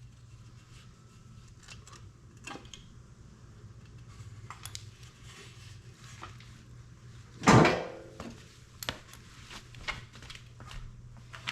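Metal tools and parts clinking and clattering as they are handled on a workbench, with one loud clank about seven and a half seconds in, over a steady low hum.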